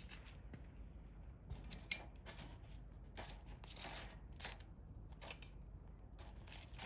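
Hardwood fire in a fire pit, crackling faintly with irregular small pops and snaps, one sharper snap about two seconds in.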